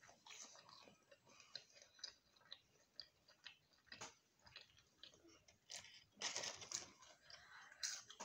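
Faint chewing of chips (fries), with scattered small crunches and mouth clicks and a louder stretch of chewing noise about six seconds in.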